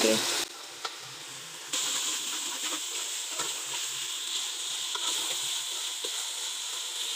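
Bitter gourd and chicken keema masala sizzling in a pot as a metal ladle stirs it, with light scrapes and ticks of the ladle against the pot. The sizzle steps up louder about two seconds in.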